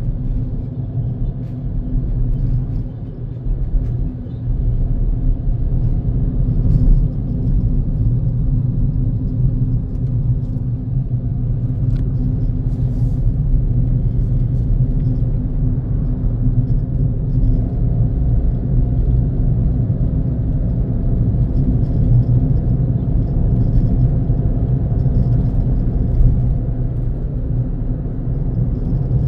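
A car being driven: steady low engine hum and road rumble, with a faint higher tone joining in about two-thirds of the way through.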